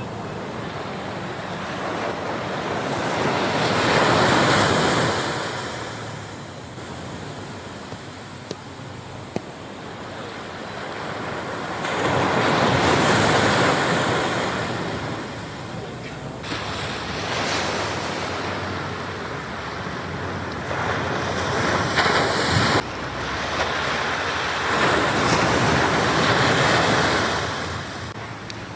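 Ocean surf: waves breaking and washing up the shore, the sound swelling and fading with each set, about every eight to nine seconds.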